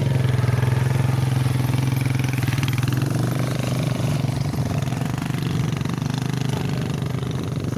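Motorcycle engine running steadily while riding, with a continuous low hum.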